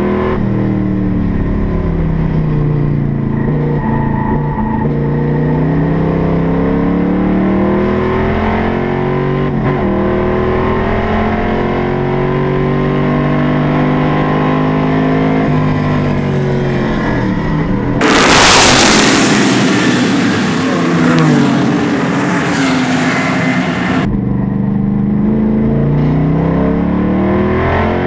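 Classic race car engine running hard, its pitch climbing and dropping again and again as it accelerates, shifts and slows. About 18 seconds in, a loud hiss lasts some six seconds over the engine.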